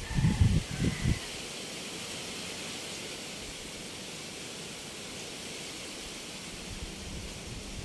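Strong storm wind: gusts buffet the microphone for about the first second, then a steady rushing hiss of wind through the leaves.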